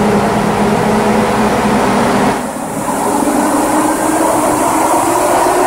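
Supercharged 3.6 L Pentastar V6 of a Jeep Wrangler running hard on a chassis dynamometer, the tyres spinning the dyno rollers. A little over two seconds in the sound dips and its high hiss falls away, then it steadies again.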